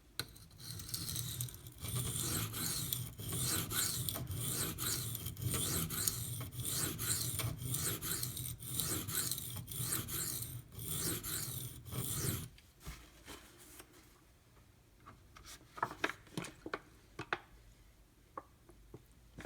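Maxamet steel knife blade stroked back and forth on a coarse 150-grit Kyoto sharpening stone, a repeated rasping scrape for about twelve seconds. The scraping then stops and a few light clicks and knocks follow near the end.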